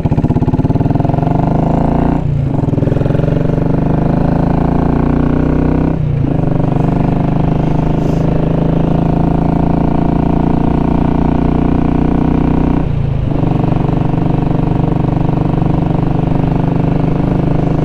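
Royal Enfield Classic 500's single-cylinder engine and exhaust under way, pulling up through the gears. The note breaks briefly three times, about two, six and thirteen seconds in, as the rider shifts, then runs on steadily.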